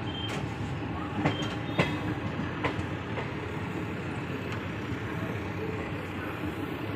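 Train running along the track, heard from the coach: a steady rumble with several sharp wheel clacks in the first three seconds or so.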